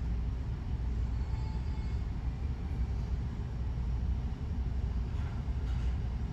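Steady low rumble of a large car ferry's engines and machinery.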